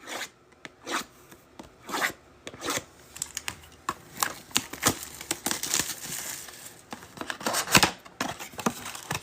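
Shrink wrap and a cardboard blaster box of trading cards being torn open and handled: an irregular run of rips, crinkles and small taps.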